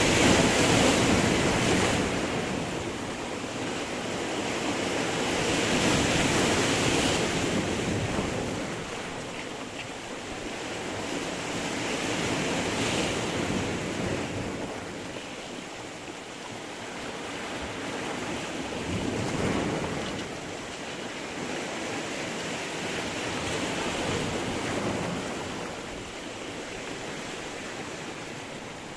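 Sea waves breaking on rocks and washing back, the surf rising and falling in swells about every six seconds, loudest at the start.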